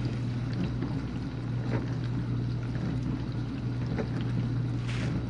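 Whirlpool dishwasher running its final rinse: the circulation pump hums steadily while water sprays and sloshes against the dishes inside the tub.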